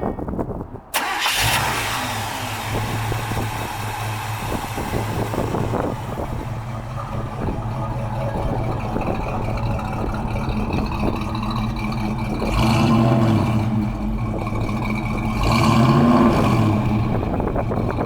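1958 Chevrolet 3100 Apache pickup's engine starting about a second in and settling into a steady idle, then revved up twice in the last few seconds.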